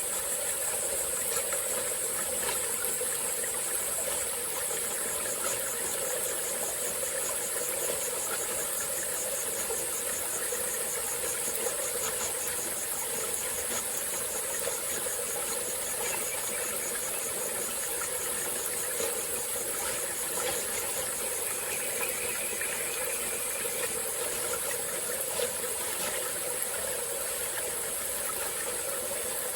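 Small tropical-forest stream flowing steadily, with a continuous high-pitched insect trill over it that takes on a fast, even pulse a few seconds in.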